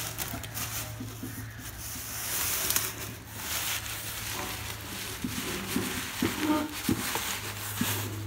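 Crackling, rustling handling noise with scattered small clicks, over a steady low hum.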